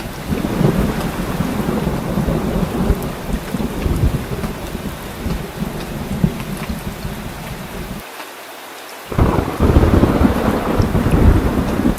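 Heavy rain falling steadily with continuous low rumbling thunder. About eight seconds in, the rumble cuts out for about a second, then comes back louder.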